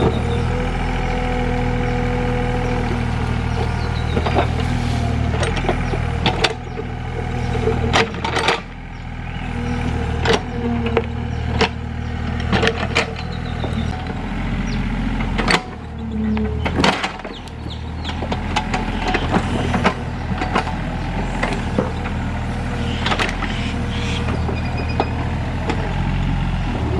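Excavator diesel engine running under load, its level dipping and recovering a few times, with many sharp cracks and knocks scattered through it as the machine clears ground.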